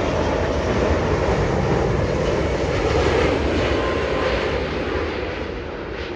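Jet airliner flying low overhead: a loud engine roar that builds to a peak about three seconds in, then fades as the aircraft moves away.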